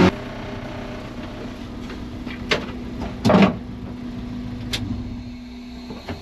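Car engine idling with a steady low hum, with a few sharp clicks and knocks, the loudest a little over three seconds in.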